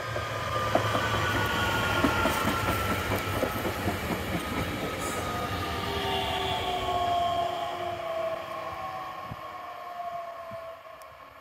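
S-Bahn electric multiple unit passing close by and slowing into the station: a rumble of wheels on rails with scattered clicks, under an electric whine that falls in pitch as it slows, fading away near the end.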